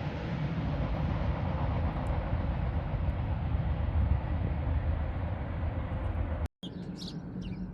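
Steady rumble of a freight train rolling past, cut off abruptly about six and a half seconds in; after that, quieter outdoor background with birds chirping.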